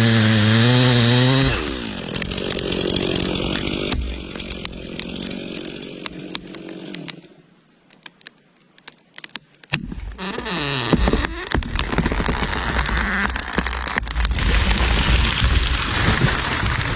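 Chainsaw running at high revs, then bogging into a cut through wood. About seven seconds in it drops away for a couple of seconds, leaving scattered clicks and cracks. Then it revs up again and keeps cutting loudly.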